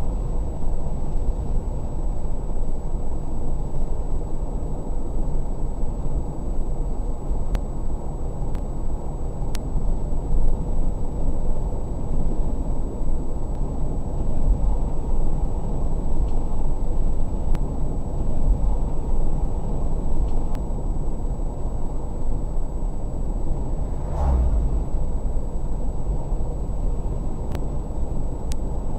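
Steady low rumble of a car driving, road and engine noise picked up by a dash cam inside the car, with a single brief thump about three-quarters of the way through.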